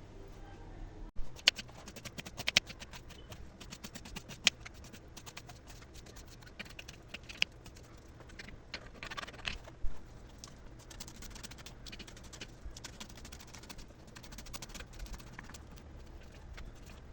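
Kitchen food-preparation handling sounds: a steady run of small clicks, taps and soft squelches, with a few louder knocks.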